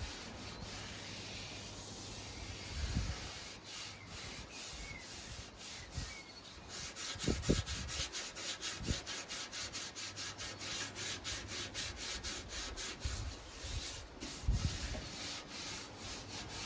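80-grit sandpaper rubbed by hand over a primed metal lawnmower deck, flatting out blemishes in the primer. About halfway through it settles into quick, even back-and-forth strokes, about four a second.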